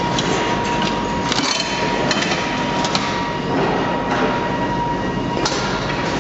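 Heavy machinery running loudly, with a dense grinding noise and scattered sharp metallic clanks; a steady high whine drops out about a second in.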